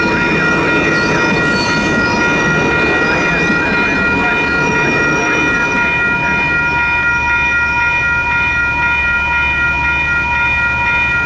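Electronic crossing bells ringing steadily at a railroad grade crossing while a passenger train rolls past on the rails. The train's rumble fades about halfway through, leaving the bells and a low hum.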